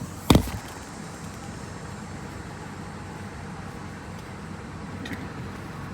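Steady low hum of a car idling, heard from inside the cabin, with one sharp thump about a third of a second in.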